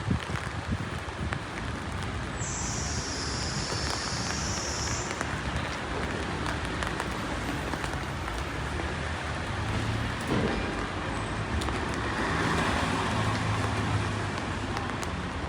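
Steady rain falling on a city street, with vehicles passing on the wet road; one passes about ten seconds in and another shortly after. A brief higher hiss comes a couple of seconds in.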